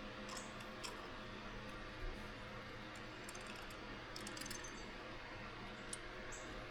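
Faint, scattered light clicks and taps of small parts and hand tools being handled during carburetor work, with a duller knock about two seconds in, over a steady low hum.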